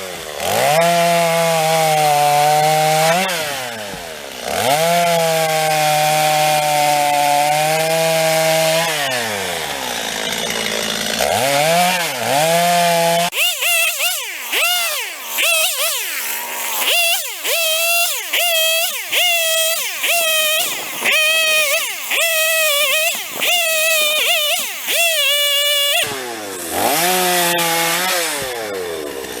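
Stihl MS 250 two-stroke chainsaw bucking firewood. It runs at high revs through long cuts and drops back between them. About halfway through it switches to a string of short rev bursts, roughly one a second, before settling into steady running near the end.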